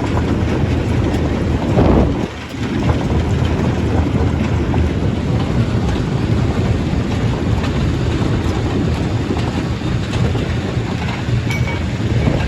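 Stone crusher running: a loud, steady rumble and grinding of rock being crushed, with a louder surge about two seconds in that cuts off suddenly.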